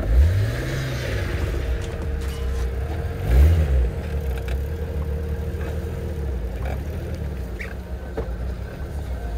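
Off-road vehicle engine running under a steady low rumble, revved up and back down twice, once at the start and again about three and a half seconds in.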